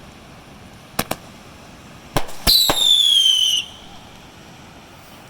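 Fireworks going off: two quick sharp cracks about a second in, two more cracks just after two seconds, then a whistling firework whose whistle falls in pitch for about a second before cutting off.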